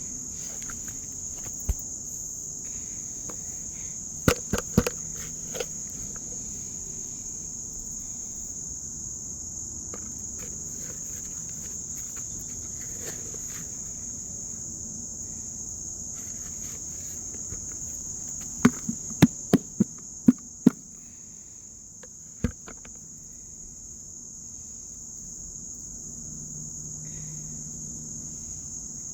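Steady high-pitched drone of insects chirring, with scattered sharp taps or knocks: a few in the first five seconds and a quick run of about six around two-thirds of the way through.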